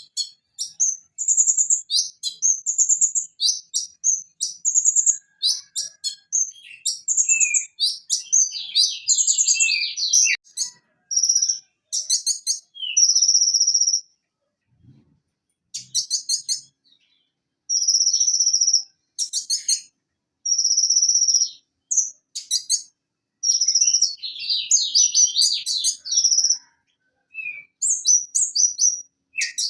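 Van Hasselt's sunbird singing a fast, varied song of high chirps and buzzy trills in short bursts, with a brief pause about halfway through.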